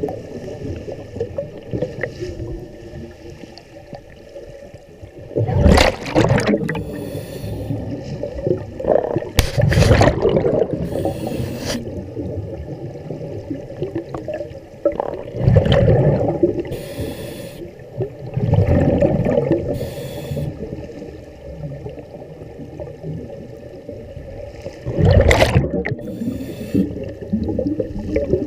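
Scuba diver breathing underwater through a regulator: short hissing inhales alternating with louder bursts of exhaled bubbles, repeating every few seconds.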